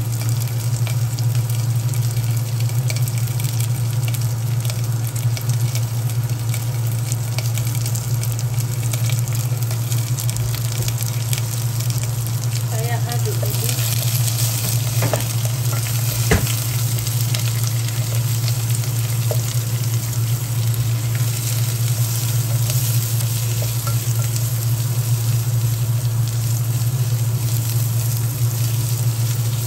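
Rawon spice paste with garlic, ginger, lemongrass and lime leaves sizzling as it sautés in oil in a non-stick pot, stirred with a wooden spoon, with a couple of sharp knocks of the spoon about halfway through. A steady low hum runs underneath.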